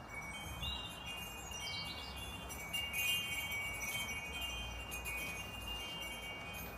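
Wind chimes ringing irregularly, several fixed tones sounding and overlapping.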